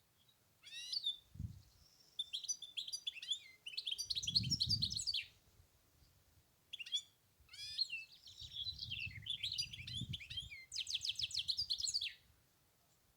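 European goldfinch singing: two long phrases of quick, twittering high notes, the second ending in a rapid trill.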